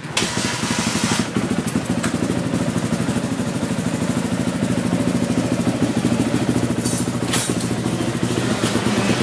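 2015 Honda CRF450R motocross/enduro bike's single-cylinder four-stroke engine running steadily, with a fast, even exhaust beat.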